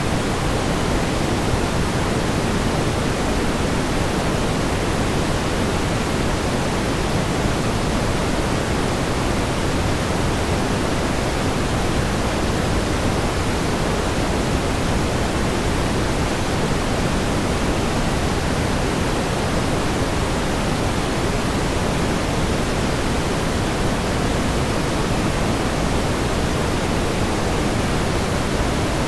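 Steady pink noise: an even, unbroken hiss weighted toward the low end, with no change in level or texture.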